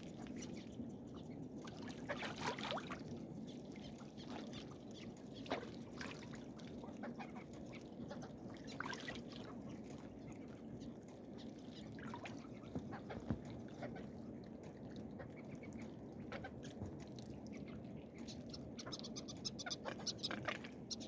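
Ducks calling faintly now and then over a low steady background.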